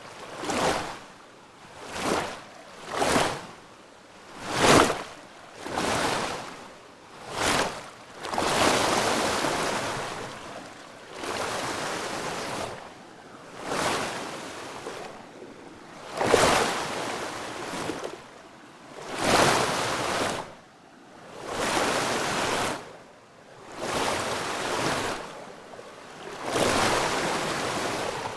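Water surging and washing in repeated swells: short rushes about once a second at first, then longer swells lasting two to three seconds each.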